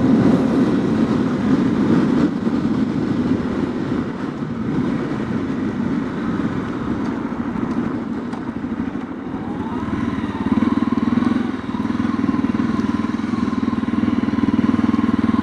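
Honda CRF250L's single-cylinder engine running while under way, easing off about two thirds in, then pulling again with a rising pitch and running louder and steadier.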